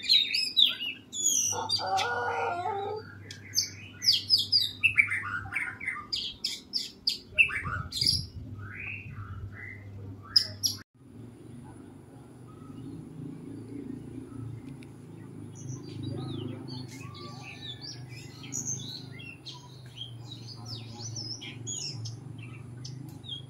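Oriental magpie-robin (kacer) singing: quick runs of short, sliding whistled notes and chirps, loud through the first ten seconds. After an abrupt break about eleven seconds in, fainter chirps continue over a steady low hum.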